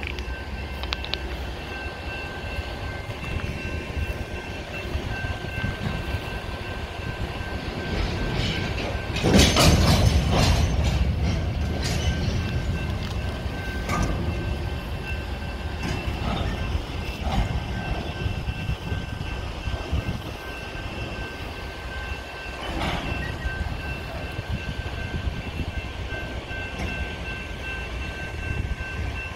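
Freight train of boxcars rolling slowly past at close range: a steady low rumble broken by scattered metallic clanks and knocks, loudest about nine to eleven seconds in.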